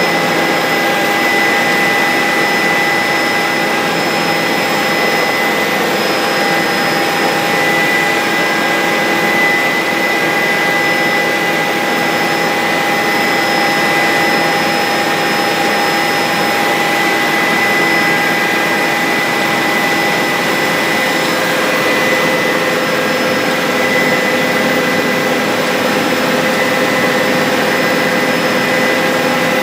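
Bell 407 helicopter in steady flight: the turboshaft engine and rotors run evenly, a constant rush with several steady whining tones over it.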